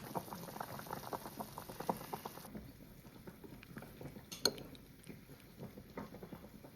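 Hot pot broth bubbling, with many small clinks and taps of utensils against dishes and the pot, and one sharper click about four and a half seconds in.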